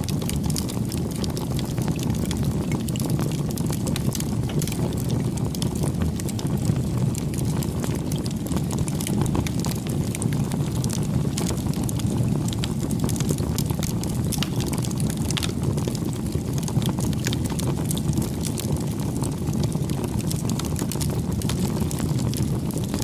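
Wood campfire burning: a steady low rumble of flame with many small sharp crackles and pops from the burning wood.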